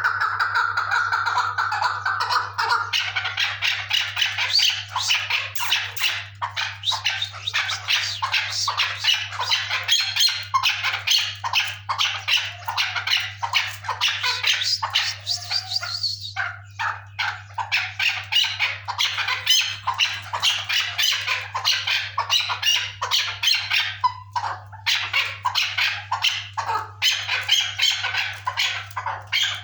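Chukar partridge calling: a rapid, continuous run of repeated chattering calls with a brief break about halfway through, over a steady low hum.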